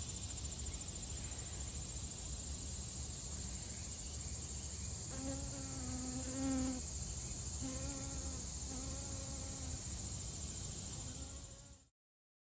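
Insects, crickets, chirring in a steady high-pitched trill. About halfway through come three or four low, drawn-out pitched calls from another source, and all sound cuts off suddenly near the end.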